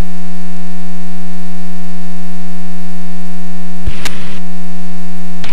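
Loud, steady electrical buzz with even overtones on the aircraft's intercom audio feed, with a brief click and crackle about four seconds in and another near the end.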